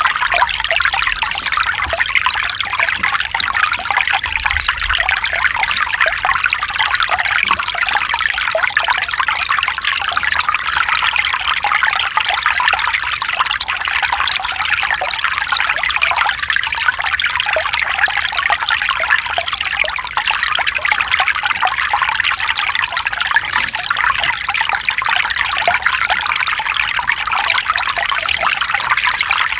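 Mountain stream flowing over rocks, a steady dense splashing trickle of water.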